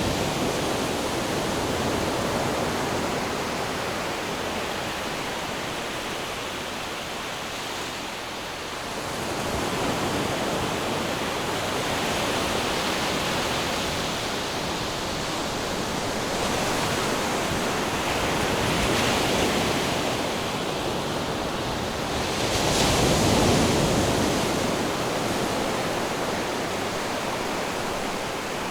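Ocean waves washing onto a shore in a steady rush of surf, swelling louder every few seconds as waves break, the biggest swell about three quarters of the way through.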